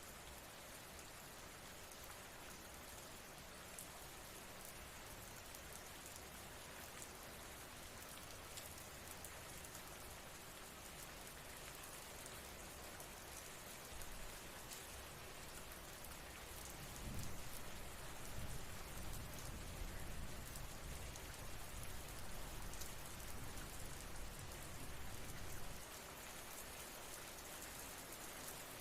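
Steady rain falling, an even hiss of drops. About two-thirds of the way in, a low rumble swells and runs until shortly before the end.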